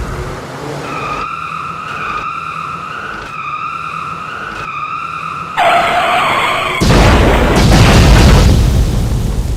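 Cartoon vehicle sound effects. A steady horn-like tone sounds four times, about a second each, then a sudden burst and a long loud rush of noise follow near the end.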